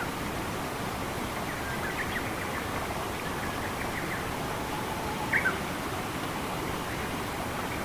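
Steady rush of running water in a forest, with a few short bird chirps over it, the plainest pair about five seconds in.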